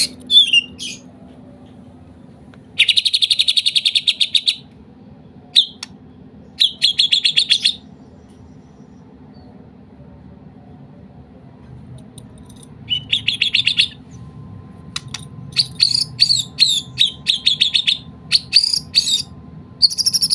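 White-rumped shama (murai batu) singing in several bursts of rapid, chattering repeated notes with short pauses between phrases, in a style learned from the kapas tembak's song.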